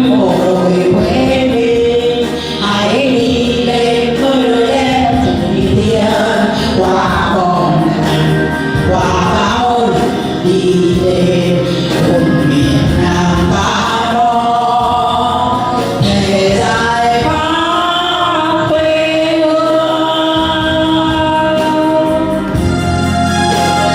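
Several voices singing a Vietnamese song together over instrumental backing. Near the end the singing stops and the instruments carry on alone.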